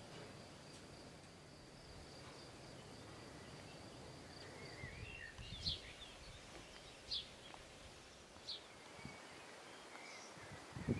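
Quiet outdoor ambience with a faint steady high insect drone, and a bird giving three short sharp chirps about a second and a half apart in the second half.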